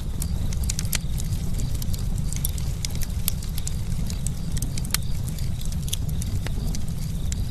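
Campfire crackling: many irregular sharp pops and snaps over a steady low rumble of the burning fire.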